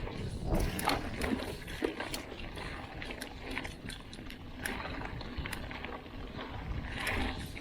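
Mountain bike rolling down a dirt trail: tyre noise over the ground with frequent rattling clicks and knocks from the bike, over a steady rumble of wind on the microphone.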